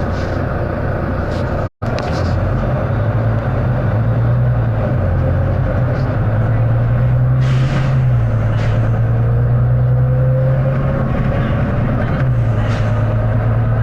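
Volvo B9TL double-decker bus's six-cylinder diesel engine heard from inside the bus as it drives, the engine note stepping with gear changes, and a thin rising whine from the driveline in the second half. A few short hissing bursts come through, and the sound cuts out completely for an instant just under two seconds in.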